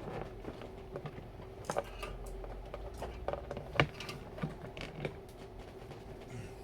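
Scattered small clicks and taps of a screw and screwdriver being worked into a PC case's metal bracket, with one sharper click just past the middle.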